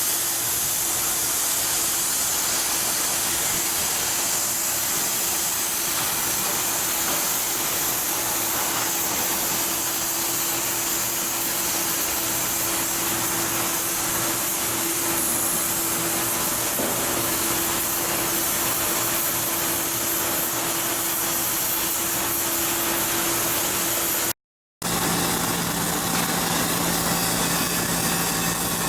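Steady, loud machinery noise from shipbuilding outfitting work: a constant hum under a hissing wash. About 24 seconds in it cuts off abruptly and a different machine hum, lower in pitch, takes over.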